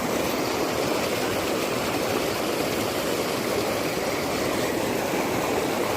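Steady rushing of floodwater in a swollen river.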